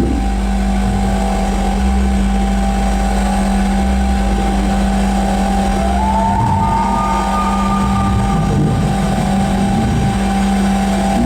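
Live noise music: a loud, dense electronic drone with a steady low hum over a rumbling bottom end, and a thin rising tone that slides up and holds briefly about six seconds in.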